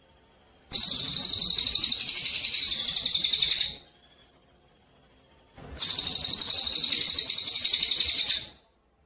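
Burung gereja (sparrow) of the Cililin 'kapas tembak' type singing two bursts of a rapid, high-pitched, pulsing trill, each about three seconds long. The first starts just under a second in and the second near six seconds, with a pause between. This is a masteran recording used to teach songbirds.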